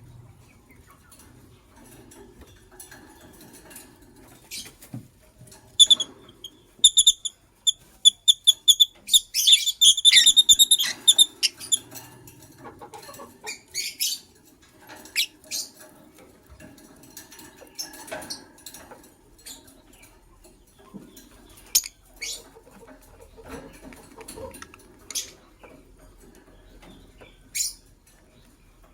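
White lovebirds chirping: a quick run of repeated high, sharp chirps a few seconds in that thickens into a dense burst, then single chirps spaced out, over soft rustling and scratching.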